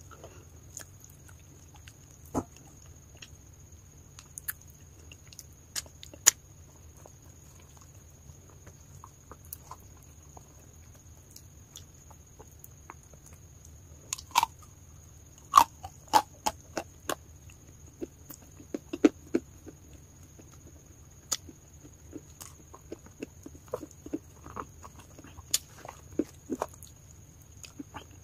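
Mouth noises of chewing a mouthful of wet clay paste: sticky, wet clicks and smacks, scattered at first and coming thick and fast over the second half, over a steady low hum.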